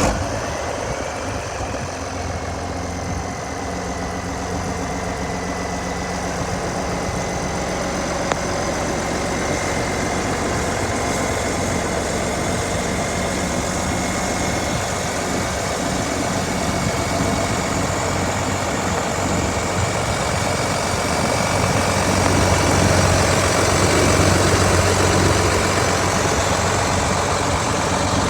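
International Harvester 1566 tractor's turbocharged six-cylinder diesel engine idling steadily, with a thin high whine over the engine note. It grows somewhat louder in the last few seconds.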